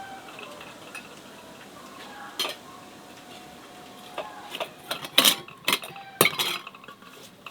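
Kitchen utensils and dishes clinking and knocking together, an irregular run of sharp clatters that comes thickest in the second half.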